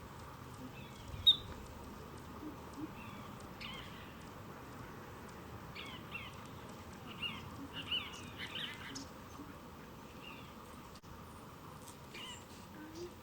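Wild birds calling in short, scattered chirps: one loud call about a second in, then a run of calls in the middle and a few more near the end.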